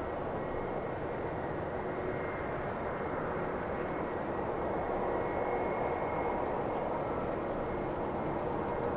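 Jet airliner engines running steadily: an even rushing noise with a faint high whine running through it.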